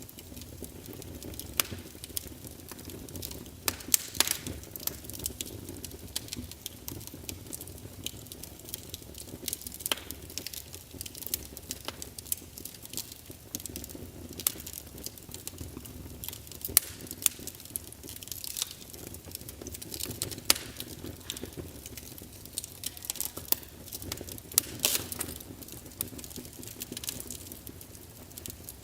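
Wood fire in a fireplace crackling, burning logs giving off irregular sharp pops and snaps over a low steady rush of flame.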